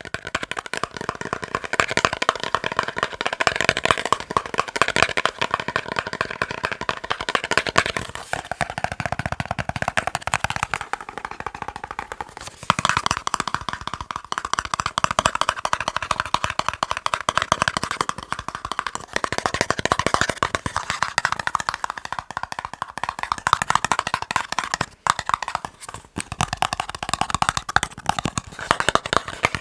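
Fast tapping on boxes: a dense, rapid patter of taps whose tone changes a few times, around 8, 13 and 22 seconds in, as different boxes are tapped.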